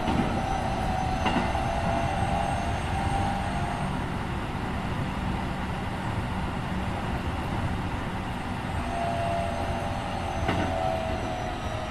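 Keikyu 1500 series electric train (Mitsubishi IGBT-VVVF motor car) running on the line, heard from inside the car: a steady rumble of wheels on rail. A thin whine comes in near the start and again near the end.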